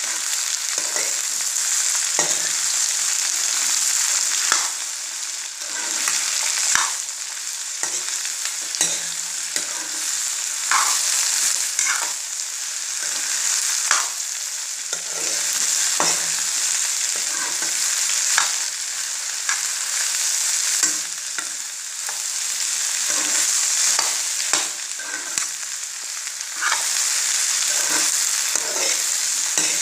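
Cut okra sizzling in hot oil in a kadai, stirred with a metal spoon that repeatedly scrapes and knocks against the pan.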